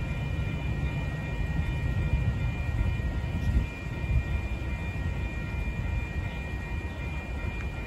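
Low rumble of a Cuyahoga Valley Scenic Railroad train at a grade crossing, easing a little about halfway through. The crossing signal's bell rings steadily over it.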